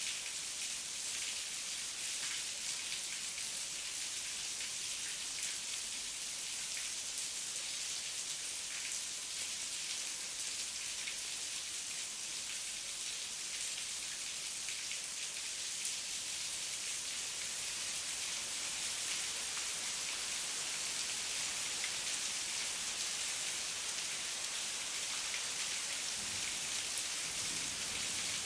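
Heavy rain falling steadily, a dense even hiss of many drops pattering on surfaces, with no thunder.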